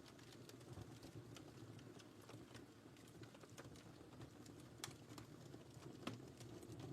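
Wood fire burning in a fireplace: a soft steady low rumble of flames with frequent small irregular crackles and pops, two sharper pops near the end.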